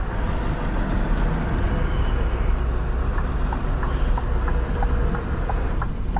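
Scania R620's 16-litre V8 running steadily under a constant wash of road and rain noise heard from inside the cab. About three seconds in, a quick tick-tock ticking starts, about three ticks a second, alternating between two pitches.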